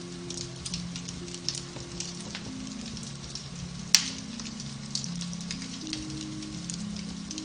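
Beech-wood fire crackling in a fireplace, with scattered small pops and one loud sharp pop about four seconds in, over soft piano-based music of low held notes.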